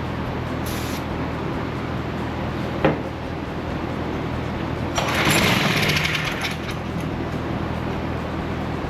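A steady low mechanical hum with a sharp click about three seconds in, then a hiss of spray or air lasting about a second and a half from about five seconds in.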